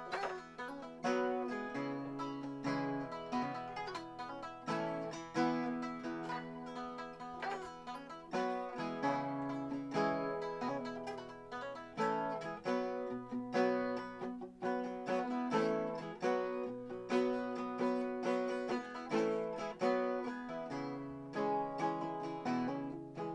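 Instrumental break on a picked acoustic guitar: a busy run of plucked notes and chords, with no singing.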